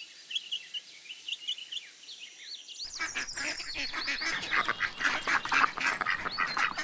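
Chicks peeping: a string of short, high peeps. About three seconds in it gives way to a louder, dense chorus of many chicks calling at once.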